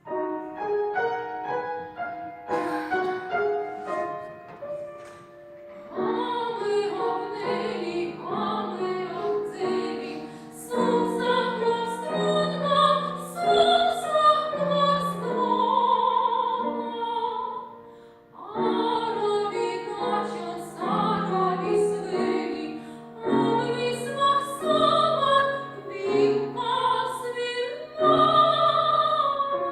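A female operatic voice sings a Russian romance with vibrato over piano accompaniment. The music starts suddenly at the beginning, the piano leading at first.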